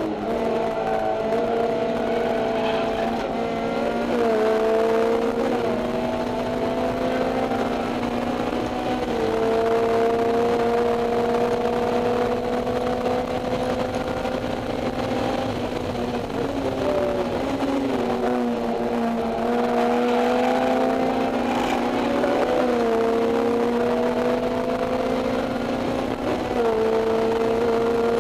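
Honda S2000's four-cylinder engine breathing through an EVS 70-SSP exhaust and Mugen header, heard from inside the cabin with the windows open. It is driven hard on track: the revs climb steadily and drop sharply at each upshift, and in the middle they fall and waver as the car slows.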